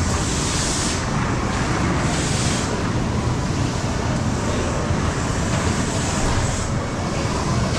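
Steady rumble and hiss of a moving train heard inside the carriage, the higher hiss swelling now and then.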